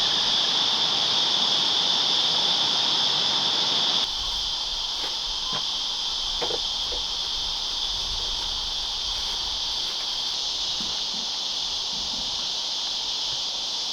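Steady high-pitched chorus of summer insects that continues throughout, dropping a little in level about four seconds in.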